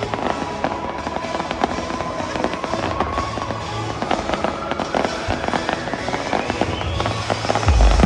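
Fireworks going off in a dense run of crackles and pops, with music playing alongside. A long rising whistle climbs through the second half, and deep bass comes in near the end.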